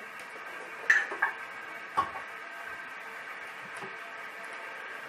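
Three short metallic clicks and knocks as a blanking disc is clipped into an espresso machine's portafilter and handled, over a faint steady hum.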